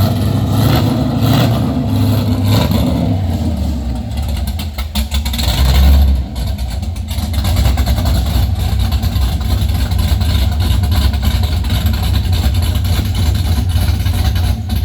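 2005 Pontiac GTO's 6.0-litre V8 running with open headers, exhaust uncorked, shortly after a cold start. The level swells a few times early on, with the loudest surge about six seconds in as the throttle is blipped, then it settles into a steady idle.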